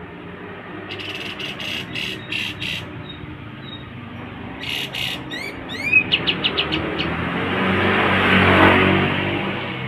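Pied triller (kapas tembak) calling: several short bursts of repeated notes, two rising whistles about five seconds in, then a quick run of short notes. A passing vehicle's noise swells and fades over the last few seconds.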